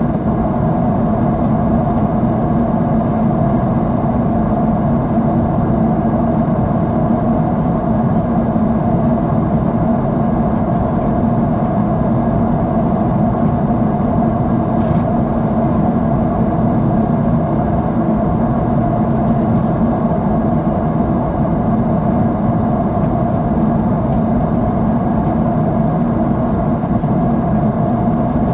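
Steady jet engine and airflow noise inside an airliner cabin in flight, an even, unbroken noise with most of its weight low down.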